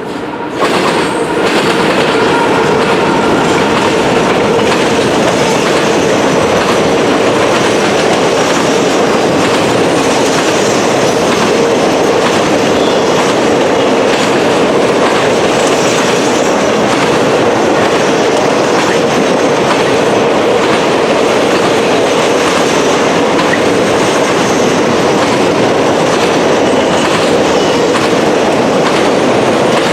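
Freight train rolling past at close range, its steel wheels clacking over rail joints and the junction's trackwork. The sound jumps up about half a second in, then holds steady and loud.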